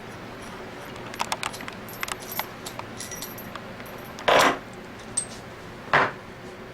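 Small metal pump parts and tools clinking and clicking as an Anest Iwata scroll vacuum pump is taken apart, followed by two short, loud rushing bursts about a second and a half apart.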